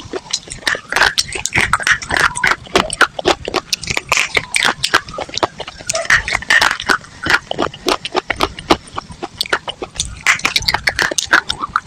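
Close-miked crunching of dry chalk and clay: a fast, unbroken run of crisp crunches and crackles.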